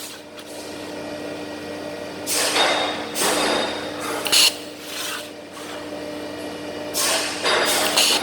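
Automated argon (TIG) welding rig at work: a steady machine hum with repeated short bursts of hiss, the strongest about two and a half, three and a half, four and a half, seven and eight seconds in.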